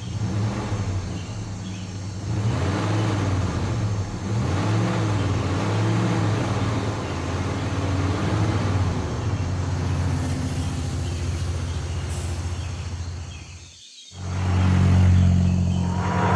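Cartoon vehicle engine sound effect running steadily with a low drone, its pitch wavering up and down. It cuts out briefly about three-quarters of the way through, then comes back louder.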